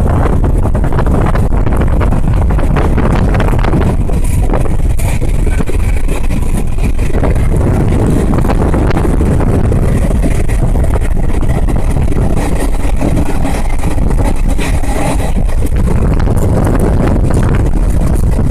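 Passenger train running at speed, heard from on board as a loud, steady rumble and rush of noise.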